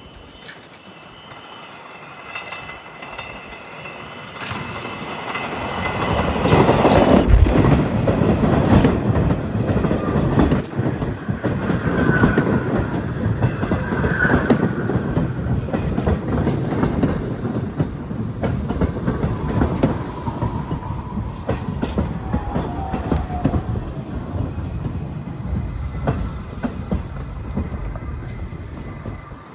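New York City subway train on the Q line coming in and running past, its rumble building over the first few seconds and then steady, with wheels clicking over rail joints and a couple of brief wheel squeals.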